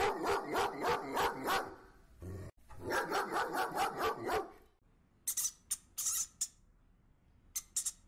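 A dog barking in two quick runs of rapid barks, about five a second, with a short pause between them. In the last few seconds there are several short, sharp high-pitched sounds.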